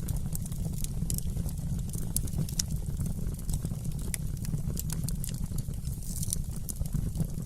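Wood fire burning in a fireplace, crackling and popping irregularly over a steady low rumble of flames.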